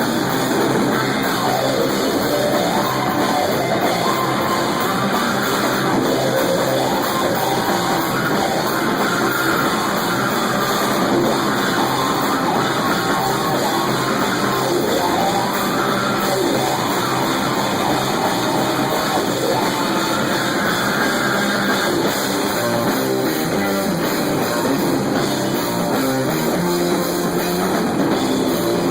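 A stoner metal band playing live: distorted electric guitars over a drum kit, loud and unbroken.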